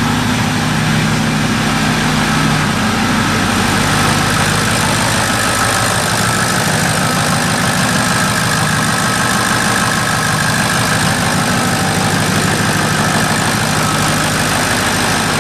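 Ford 6.0 Powerstroke V8 turbodiesel, with a 4-inch straight-pipe exhaust, idling steadily just after a cold start following six months of sitting, just chugging.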